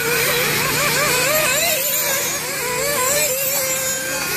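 Several nitro-fuelled RC racing buggy engines screaming around the track, their high-pitched whine rising and falling over and over as the drivers throttle on and off through the corners and jumps.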